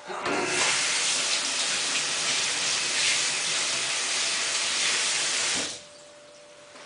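Water rushing into a washing machine's drum through its fill valve, a steady gush that cuts off suddenly after about five seconds, leaving a faint steady hum.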